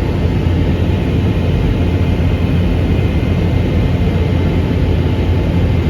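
Steady drone of jet airliner cabin noise in flight, a deep low rumble under an even rushing hiss.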